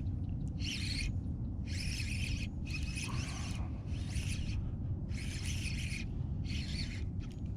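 Fishing reel being cranked in short bursts about once a second while a hooked ladyfish is brought in, over a steady low rumble.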